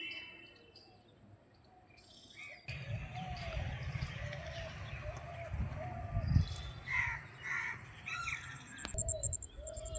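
Birds calling in a run of short repeated calls, starting about three seconds in, over a low rumbling noise and a steady high-pitched whine.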